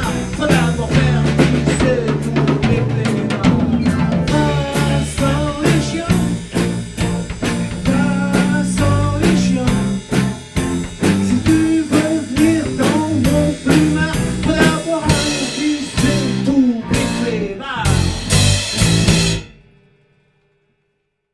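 Live band of drum kit, bass and keyboards playing an instrumental outro, with a run of closing hits before the music stops abruptly near the end.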